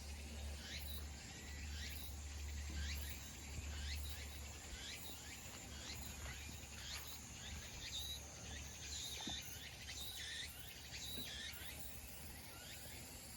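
Summer insects: a steady high drone with a pulsing very high buzz. Short chirps rise and fall over it, about once or twice a second, and a low rumble fades out around the middle.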